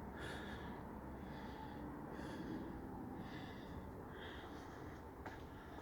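Faint breathing of a person close to the microphone, a soft breath about once a second over a low steady background hum.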